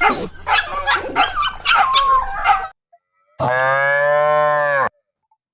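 A cow moos once, a single steady call of about a second and a half with a slight rise and fall in pitch, after a short silence. It is preceded by a stretch of rapidly shifting, high calls.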